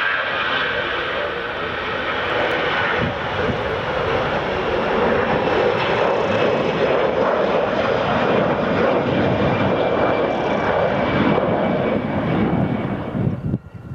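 Airliner engines running loud and steady as the aircraft passes close on landing. The noise builds over the first few seconds and cuts off abruptly near the end.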